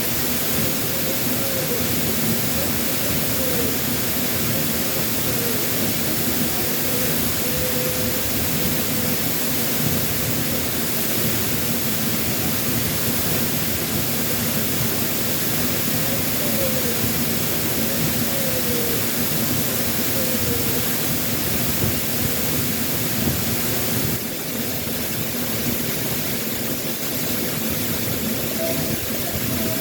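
Steady, loud rush of a waterfall, swollen with water after a typhoon.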